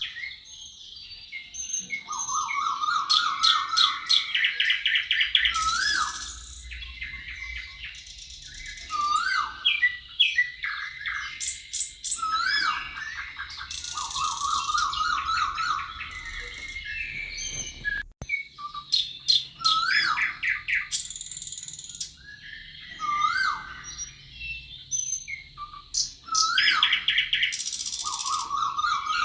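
Several songbirds singing over one another: repeated fast trilled phrases, looping whistled notes that rise and fall, and high thin buzzy calls.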